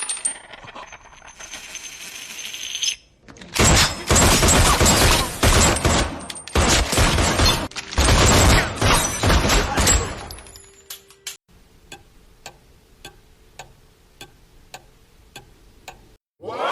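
A run of separate stock sound effects: a few seconds of dense, loud crackling noise in chunks, a brief steady tone, then evenly spaced sharp ticks about two a second.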